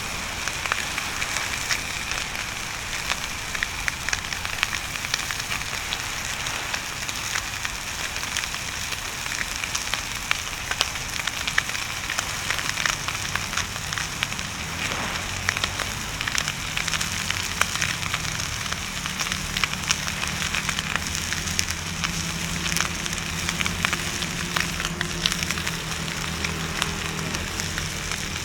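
Bonfire crackling and popping steadily over a constant hiss. About halfway through, a low steady hum comes in and carries on to the end.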